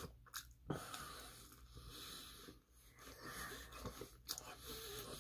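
Quiet, close-miked sounds of pizza crust being bitten and chewed: a few sharp mouth clicks and crunches, with soft breathing through the nose in between.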